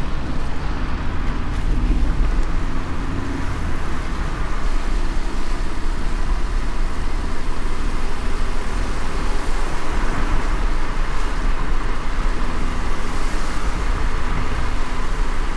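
A car driving in light rain: a steady low road-and-tyre rumble with an even hiss of rain and wet road over it.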